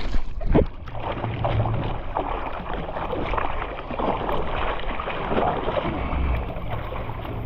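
Water splashing and rushing along a rescue board as it is hand-paddled at a steady clip.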